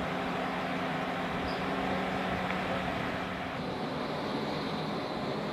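Steady mechanical noise with a low hum, which changes about three and a half seconds in.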